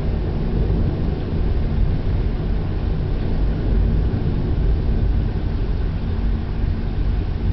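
Thunderstorm: a steady low rumble with a lighter hiss of rain above it.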